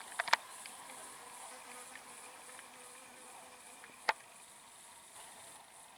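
A flying insect buzzing steadily and faintly. Sharp clicks come just after the start and once, loudly, about four seconds in.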